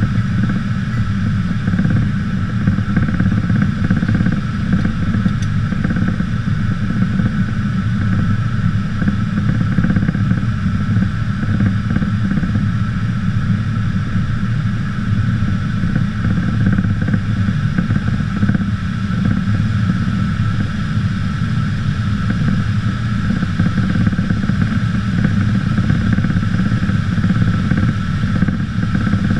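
Aircraft engine drone heard from inside the aircraft during a landing, steady and unbroken, with a low rumble and a constant higher whine.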